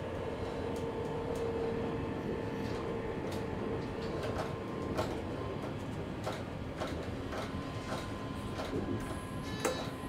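Passenger train running, heard from the driver's cab: a steady low rumble with a steady whine that fades away about four seconds in. Then come irregular sharp clicks and knocks, and a higher steady tone near the end.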